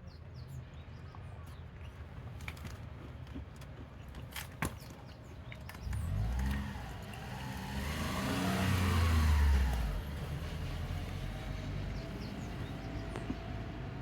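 A car driving past, swelling from about six seconds in and fading away around ten seconds, over a steady low rumble with a few faint clicks.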